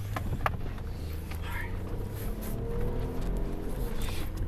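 Car engine idling, a low steady rumble heard from inside the cabin.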